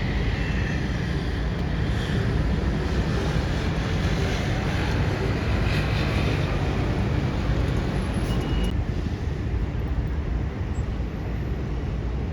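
Steady road traffic noise, a dense low rumble with the higher hiss easing a little about nine seconds in.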